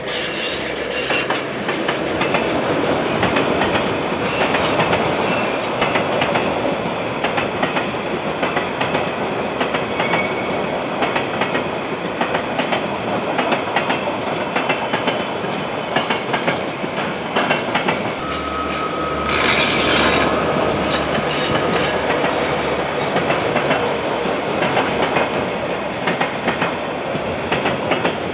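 KiwiRail freight train rolling past, its wagon wheels clicking steadily over the rail joints. About two-thirds of the way through, a thin squeal and a deeper rumble rise briefly over the clatter.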